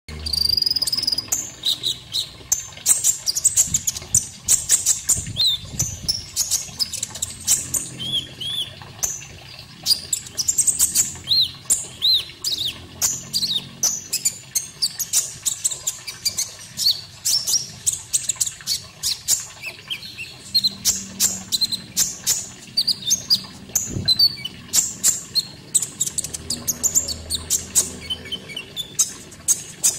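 A konin songbird singing a fast, continuous run of sharp chirps and short rising whistles, over a faint steady background of running water.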